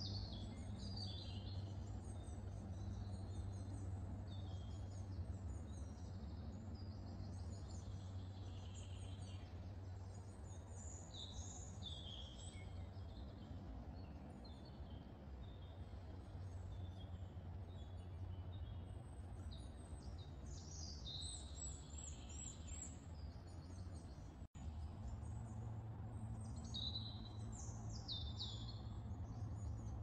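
Wild birds singing and chirping in short, high phrases over a steady low hum, with a split-second dropout in the sound about 24 seconds in.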